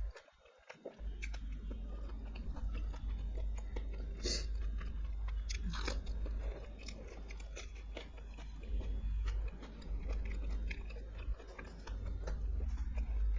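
A person chewing and biting food close to the microphone, with frequent wet clicks and a couple of louder crunches about four and six seconds in, over a steady low hum.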